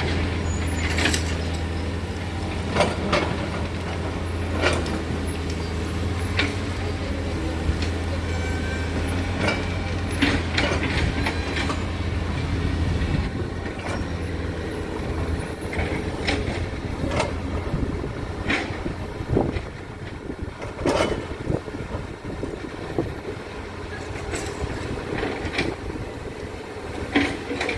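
Heavy diesel machinery running, a steady low engine drone that fades out about halfway, with scattered metallic clanks and knocks throughout.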